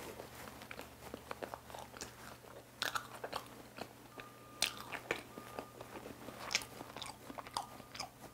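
Chewing a mouthful of soft cream-filled pandoro, with irregular wet mouth clicks.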